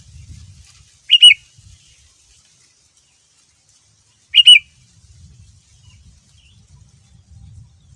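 Sooty-headed bulbul (kutilang) giving two short, loud calls about three seconds apart, each a quick pair of notes.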